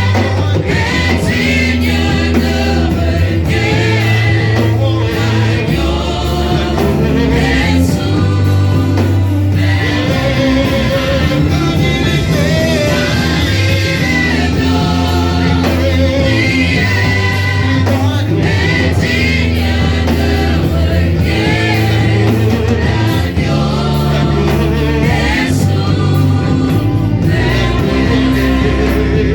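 Gospel worship music: a choir singing over a band with a steady bass line.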